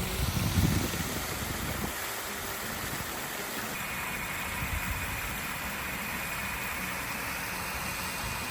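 A car running with a steady rushing hum, with a faint steady high whine joining about four seconds in.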